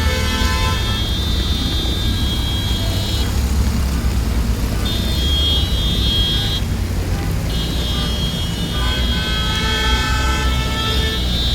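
Road traffic: a steady low engine rumble, with high thin tones that come and go and a horn-like pitched sound from about nine to eleven seconds in.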